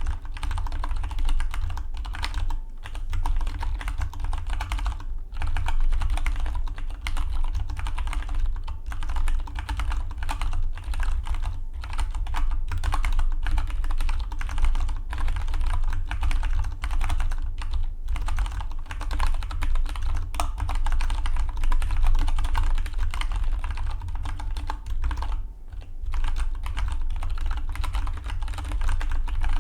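Fast, continuous typing on a Dygma Defy split mechanical keyboard: a dense patter of keystroke clicks broken by short pauses every few seconds, the longest a little before the end. A steady low hum runs underneath.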